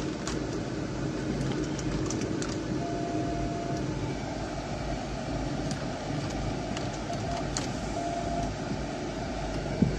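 Steady running noise of a Jeep Grand Cherokee idling, heard from inside the cabin. A few faint clicks come as the electronic gear lever is worked. Two short beeps sound, one about three seconds in and a shorter one near the end.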